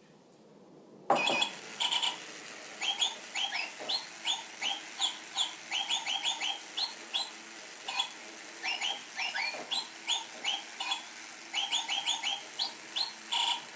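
Jingle Bird electronic toy bird tweeting a Christmas carol: a quick run of short, falling electronic chirps in a tune, starting suddenly about a second in.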